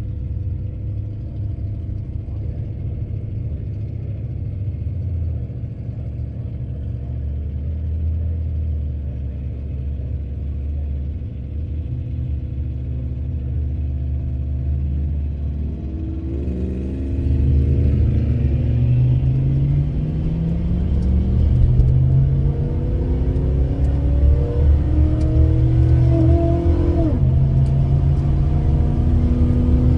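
Car engine idling steadily, heard from inside the cabin of an old Plymouth Volaré Road Runner at the drag-strip start line. About 17 seconds in, louder engine revving sets in, the pitch climbing in several sweeps and dropping sharply near the end.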